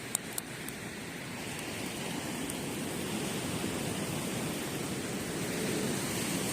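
Sea waves surging up the beach, the wash of surf swelling over several seconds; two sharp crackles from the wood campfire sound just at the start.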